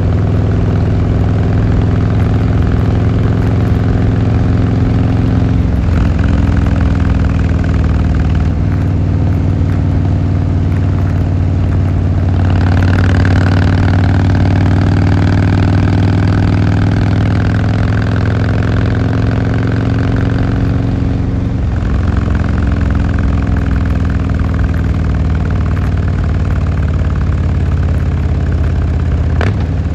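Harley-Davidson Fat Boy Lo's V-twin engine and exhaust running steadily on the move. The note breaks briefly a few times, and there is a louder, hissier stretch in the middle.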